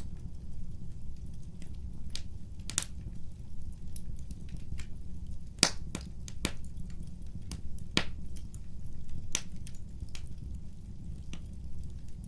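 Wood fire crackling: sharp, irregular pops and snaps over a steady low rumble, the loudest pops coming about halfway through and again about two thirds in.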